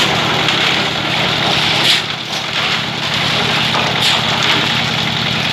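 Concrete mixer machine running and mixing a batch of concrete: a steady engine drone with the churning noise of the mix, and brief louder noises about two and four seconds in.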